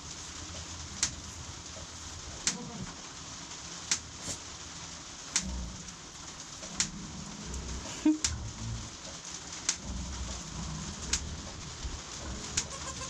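Pigeons cooing low over a steady hiss of rain, with a sharp tick about every second and a half.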